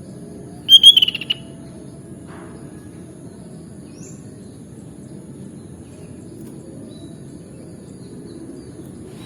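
Sooty-headed bulbul (kutilang) calling: one short, loud burst of rapid notes about a second in, then a faint high chirp a few seconds later, over a steady low background rumble.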